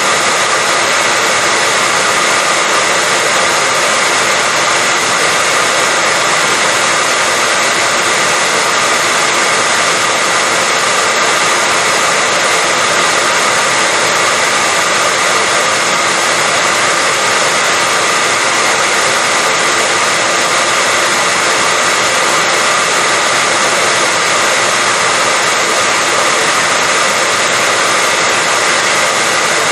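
Hair dryer running continuously at one setting: a steady rush of air with a constant whine on top, never changing.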